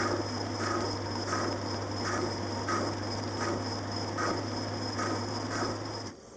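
Motor-driven machine tool running with a steady hum and high whine, a short scraping cut repeating about every 0.7 seconds as the tool meets the metal once per turn. Cuts off abruptly near the end.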